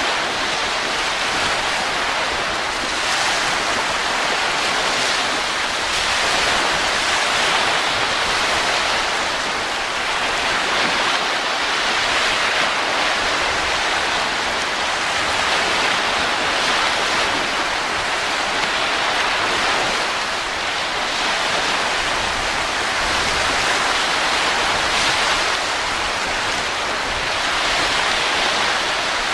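Wind recording: a steady rushing hiss that swells and eases gently every few seconds.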